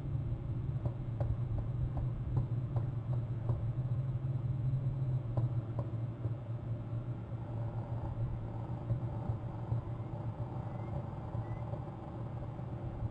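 Steady low mechanical hum, with a run of faint ticks in the first few seconds.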